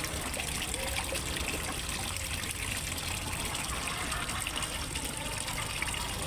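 Water trickling and splashing steadily into a fish pond, an even, unbroken flow.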